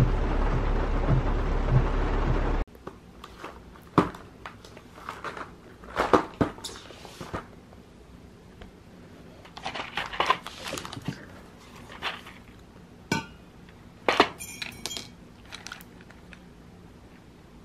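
A loud, steady rushing noise cuts off suddenly about two and a half seconds in. Scattered clinks and knocks follow, as dishes and utensils are handled.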